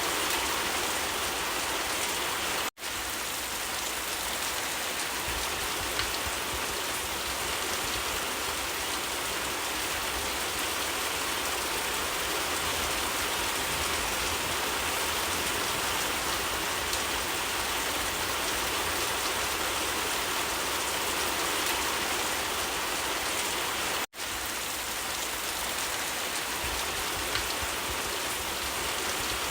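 Steady, even rain falling. The sound drops out for an instant twice, about 3 seconds in and about 24 seconds in.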